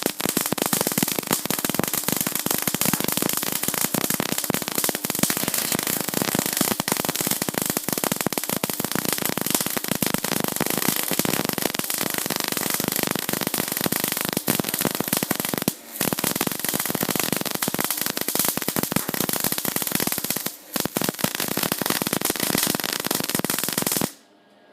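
Electric arc welding: the arc crackles and hisses densely and steadily as a bead is laid, breaking off briefly twice, about 16 and 21 seconds in, and stopping just before the end.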